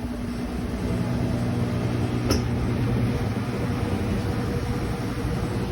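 Brastemp BWK12 12 kg top-loading washing machine running its spin cycle: a steady motor hum with a single sharp click about two seconds in.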